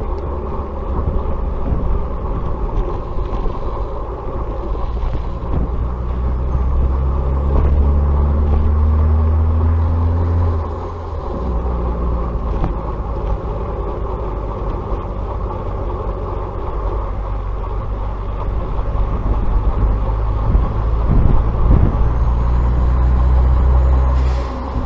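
Truck engine running under way, its note climbing and then dropping off abruptly, once about ten seconds in and again near the end.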